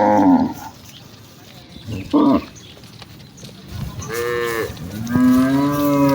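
Cattle mooing from a herd: four calls one after another, a short one about two seconds in and a long drawn-out moo near the end.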